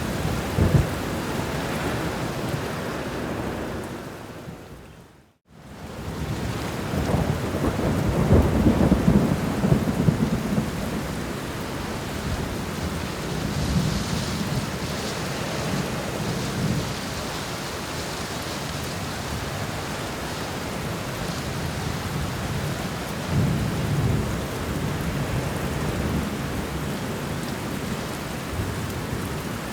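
Steady rain with thunder rumbling several times, the longest and loudest roll about eight to ten seconds in. About five seconds in, the sound fades briefly to silence and fades back up.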